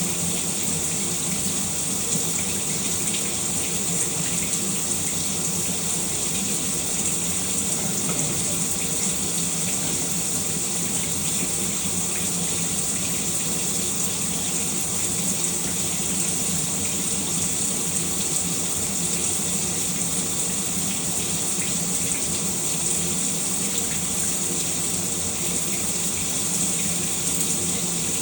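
Shower running steadily: an even, unbroken hiss of falling water.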